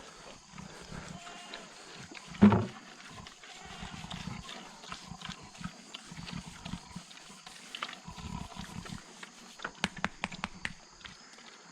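Livestock grunting low off and on, with one loud call about two and a half seconds in. A quick run of sharp clicks comes near the end.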